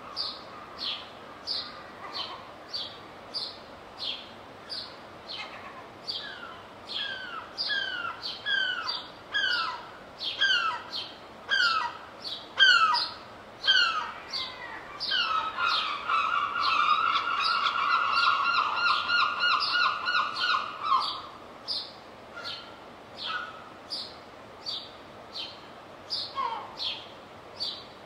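Wild birds chirping and singing. One bird repeats a short, high chirp nearly twice a second throughout. Another gives a series of falling whistled notes midway, followed by a loud rapid trill lasting several seconds.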